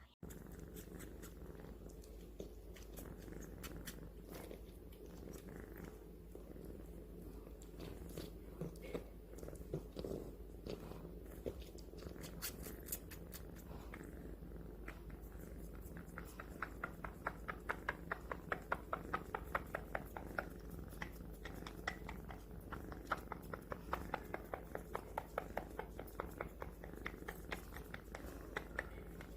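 Kitten suckling on a person's hand, wet sucking smacks in a fast even rhythm of about four a second that grows louder about halfway through, over a steady purr.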